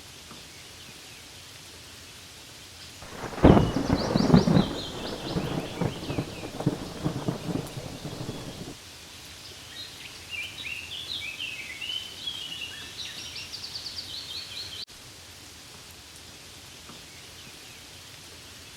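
Steady rain falling on leaves, with a sudden rumble of thunder about three seconds in that lasts about five seconds and then cuts off. Birds chirp over the rain around the thunder and again through the middle, stopping abruptly.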